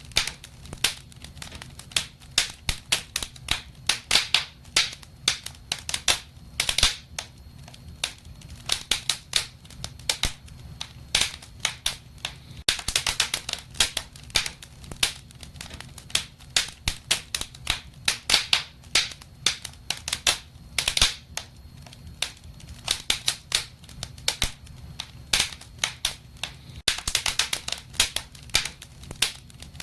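Wood fire crackling and popping in a fireplace: many sharp irregular snaps, some in quick clusters, over a faint low hum.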